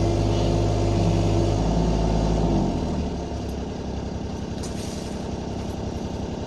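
Kubota U35-4 mini excavator's diesel engine running, louder at first, then dropping in level and pitch about two and a half seconds in and running on steadily.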